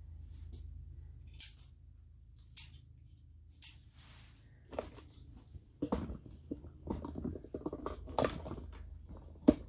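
Grooming scissors snipping a Shih-Tzu's leg hair: three sharp snips about a second apart, followed by irregular rustling and light knocks from handling the dog, with one sharp click near the end.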